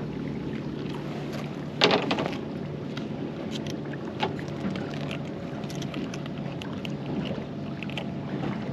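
A boat's motor hums steadily under wind and water noise while tackle is handled, with scattered clicks and one sharp knock about two seconds in.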